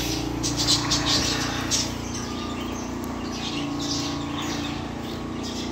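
Small birds chirping in quick, repeated calls, busiest in the first two seconds, over a steady low hum.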